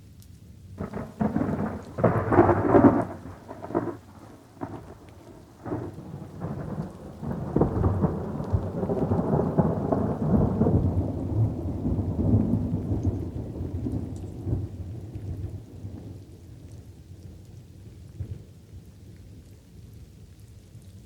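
Thunderstorm with light rain falling: a thunderclap crackles in sharp strokes about a second in, then a long rolling rumble of thunder swells and slowly fades away.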